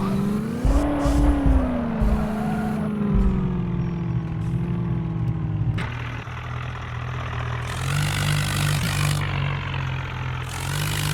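Motor vehicle engine running, its pitch rising briefly about a second in and then settling. About six seconds in it changes abruptly to a lower engine note with two spells of hissing noise.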